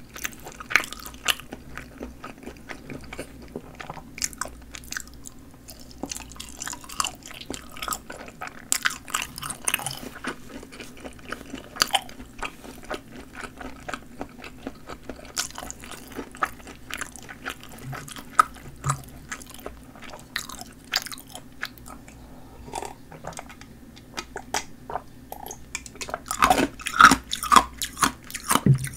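Close-miked chewing of snappy-casing assorted sausages: wet chewing with crisp, crackling clicks throughout, and a run of louder crunches near the end.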